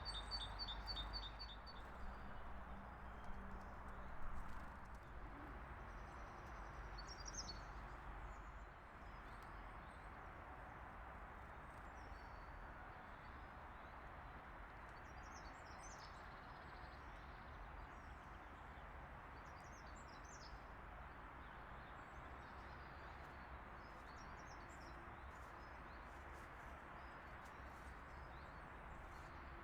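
Faint outdoor ambience of small songbirds: a quick run of short high chirps in the first two seconds, then only scattered brief chirps over a steady background hiss.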